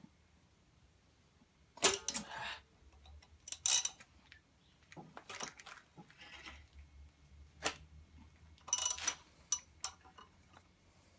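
A handful of sharp metallic clinks and knocks from hand tools and engine parts being handled. The loudest comes about two seconds in and rings briefly, with more near four, eight and nine seconds in.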